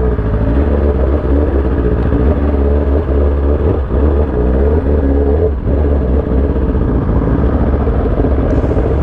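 Sport motorcycle engine running while riding, its pitch rising and falling with throttle changes through the middle, and a brief drop about five and a half seconds in.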